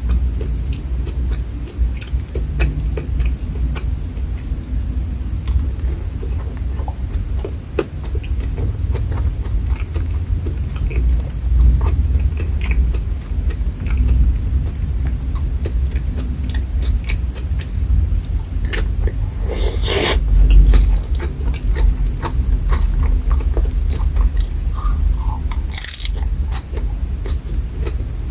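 Close-miked chewing and biting of rice with fried shrimp and sambal matah: steady mouth sounds with many small clicks, and two louder crunchy bites, about two-thirds of the way through and again near the end.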